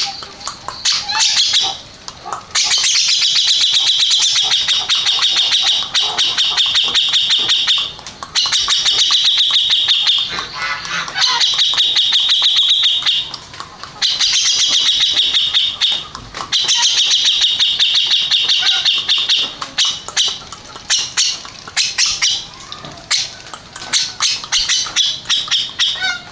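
Grey-cheeked bulbul (cucak jenggot) singing in runs of rapid repeated chattering notes, each run lasting a few seconds, with short pauses between.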